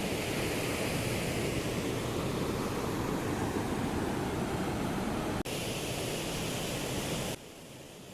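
Steady rush of river water. It breaks off sharply about five and a half seconds in, and for the last second or so only a much fainter hiss remains.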